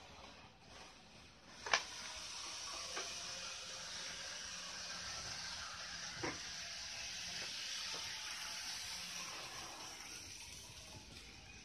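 N-scale model train running on its track, a steady hiss of wheels and small motor, with a few sharp clicks, the loudest about two seconds in.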